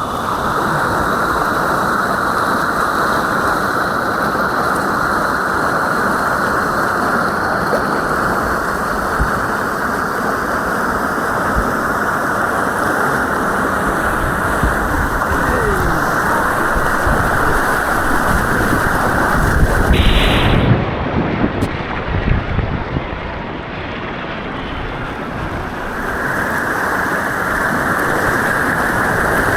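White water rushing on an artificial slalom course, a steady loud roar of water close to the camera. About twenty seconds in comes a loud splash, then the sound goes dull and muffled for several seconds before the rush returns.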